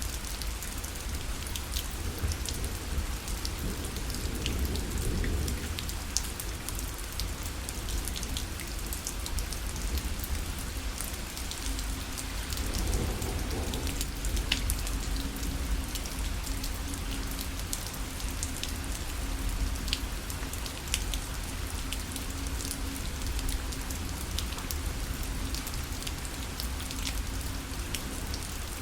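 Steady rain falling on a fabric parasol, with many individual drops ticking sharply over a continuous patter and a low rumble underneath.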